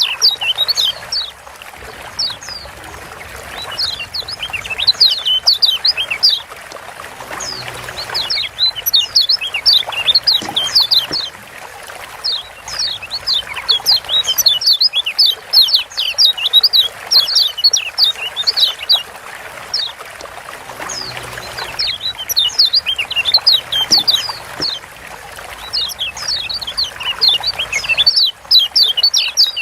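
Lombok yellow white-eye (kecial kuning) giving rapid 'ciak' chirps: quick runs of high, downward-sweeping notes repeated every second or two, over a steady rushing background like trickling water.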